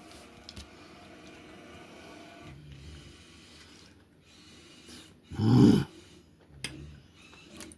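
A man's loud nasal "mm" of enjoyment over food, about five and a half seconds in. Before it there are faint breathing and mouth noises, with a softer hum near the three-second mark.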